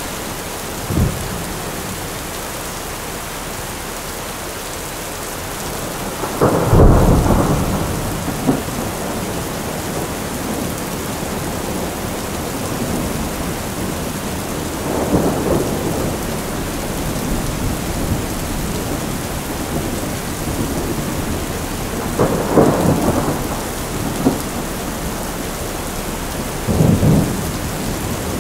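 Thunderstorm sound effect: steady rain with rolls of thunder, the loudest about seven seconds in and further rumbles later.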